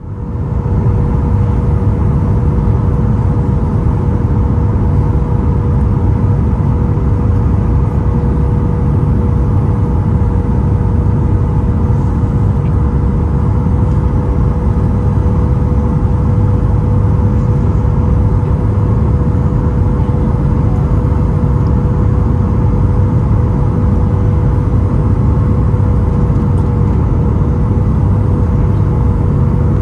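Cabin noise of a Boeing 737 MAX 8 heard from a window seat: a steady rush of air and low rumble, with the CFM LEAP-1B engine's constant hum running through it. The level holds even throughout, with no thump or surge.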